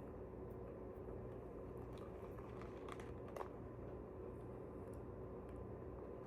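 Faint chewing of a strand of green-apple-flavoured edible grass, a thin paper-like wafer, over a steady low room hum, with a couple of small clicks about three seconds in.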